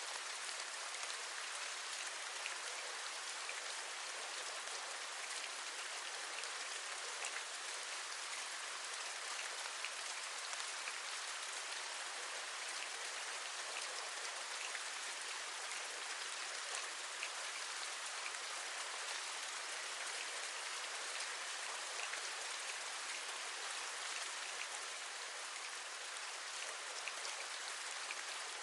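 Steady rain with many small raindrops tapping on a window, an even hiss dotted with fine ticks.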